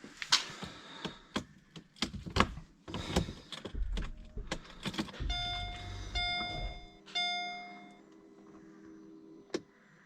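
A string of clicks and knocks, then three electronic beeps in a row from the Mercedes SL55 AMG's warning chime, with a steady hum under them. This comes on a start attempt with a weak battery that does not get the engine going.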